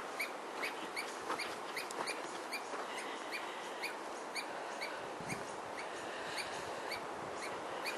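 A bird repeating a short chirp about three times a second, over a steady hiss of wind.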